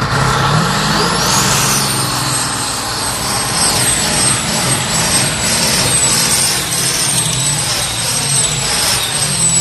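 Modified pulling tractor's engine running hard under load. A high whistle rises over the first second and a half, then holds steady above the engine's low drone.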